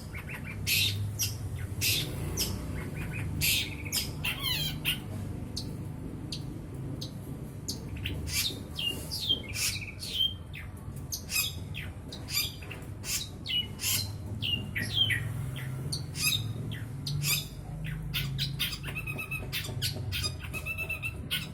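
Long-tailed shrike (cendet) singing: a varied run of harsh squawks, sharp chips and short whistled notes, with fast rattling trills about four seconds in and again near the end.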